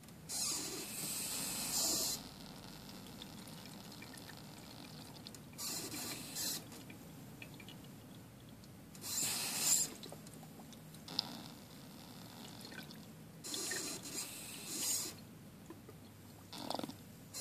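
Miniature ceramic toilet flushing, with water rushing in about five short spurts of a second or two each.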